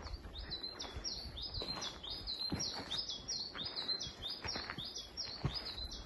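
A small songbird singing a long run of quick, high two-part notes, about three a second. Footsteps on a dirt trail fall about once a second underneath.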